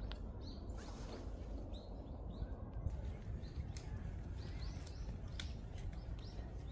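Small birds chirping in short, high calls, repeated many times over a steady low background rumble, with a few sharp clicks.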